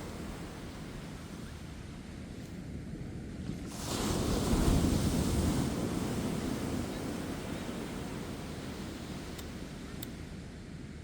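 Ocean surf breaking on a beach: a wave crashes about four seconds in, the loudest moment, and its wash slowly fades away.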